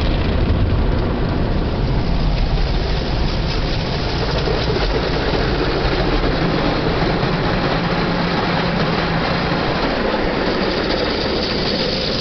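Automatic car wash machinery running over a car: a steady rush of water spray and machine noise with a low rumble underneath.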